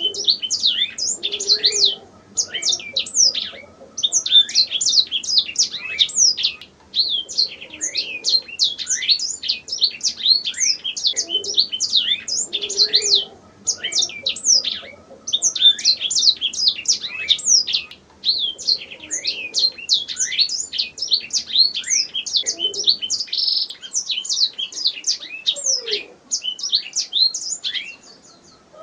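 Domestic canary singing: long phrases of rapid, high chirps and trills, broken by short pauses every two to four seconds.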